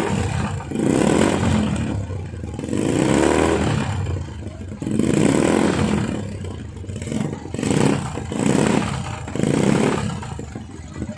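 Small motorcycle engines piped into a single shared exhaust, revved in repeated blips about once a second.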